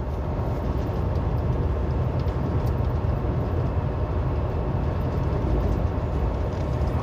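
Steady low drone of a semi-truck's diesel engine and road noise heard from inside the cab while cruising on the highway.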